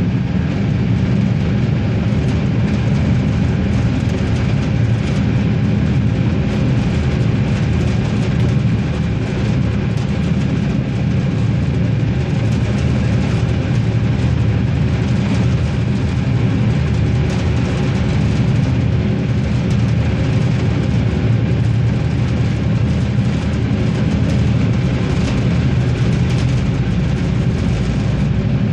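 Regiosprinter diesel railcar running steadily: a constant low drone with steady tones over it, with no change in speed or pitch.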